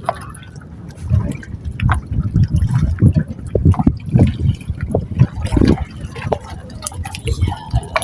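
Seawater sloshing and splashing in irregular surges, with scattered slaps and drips.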